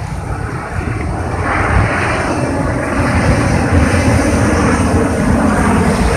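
Hayabusa-class missile boat's gas turbines running at speed, a loud jet-like roar that swells about a second and a half in and holds, with wind rumbling on the microphone.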